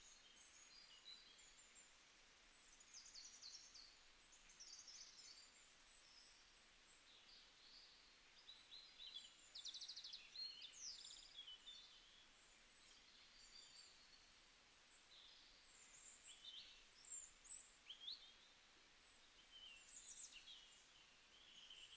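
Near silence, with faint, scattered high bird chirps in the background.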